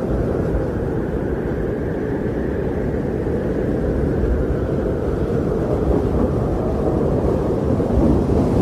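Wind blowing steadily in a snowstorm, a low rushing noise that swells and eases gently.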